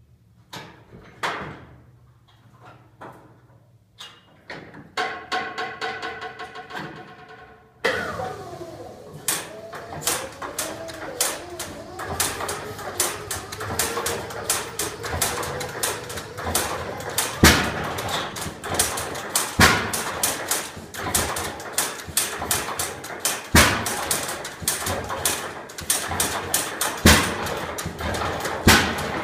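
Rumley OilPull tractor engine, quiet at first and then running from about eight seconds in: a rapid train of sharp firing beats, with louder irregular pops every second or two.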